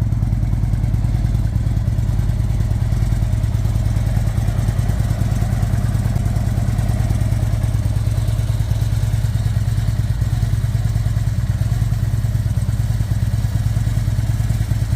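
Harley-Davidson Ultra Classic's V-twin engine running steadily at idle through an aftermarket Supertrapp exhaust, a deep, even, pulsing exhaust note with no revving.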